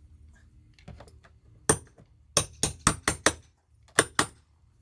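Steel-handled hammer striking a steel cat's paw nail puller to drive its claw under a nail head: about eight sharp, ringing metal-on-metal blows, most of them in a quick run about two to three seconds in.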